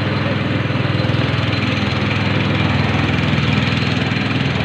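Small single-cylinder boat engine running steadily at an even speed, with a fast, regular chug.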